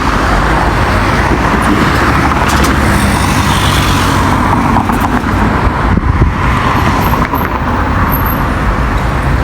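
Busy road traffic: cars and other motor vehicles running past a pedestrian crossing, a steady loud rumble of engines and tyres.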